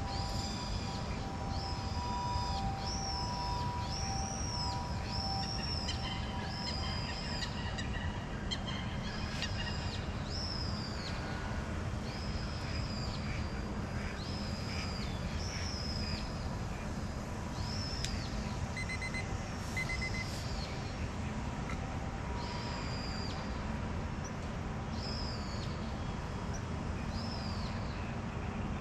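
A bird calls over and over in short, high, arched notes, about one a second, over a steady low rumble. For the first few seconds a faint steady whine from the distant RC airplane's electric brushless motor runs underneath, then fades.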